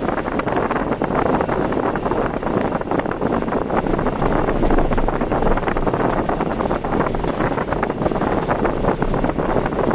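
Steady rushing noise of a car driving in typhoon weather: wind and road noise with a dense patter of small ticks, as of rain on the car.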